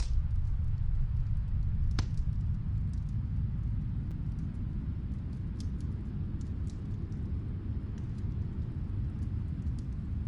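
Snowstorm wind making a steady low rumble, with scattered faint crackles and pops from a wood fire. Two sharper pops stand out, one at the start and one about two seconds in.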